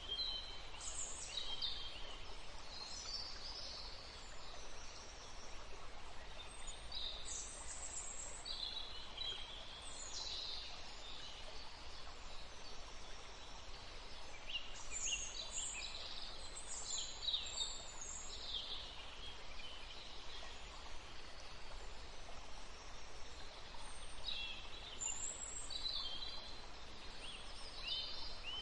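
Wild songbirds singing and chirping in high-pitched bouts, busiest around a second, ten, sixteen and twenty-six seconds in, over a steady background hiss.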